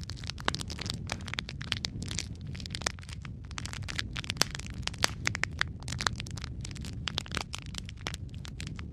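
Wood fire burning in a fireplace, crackling with many irregular sharp pops over a steady low rumble of flame.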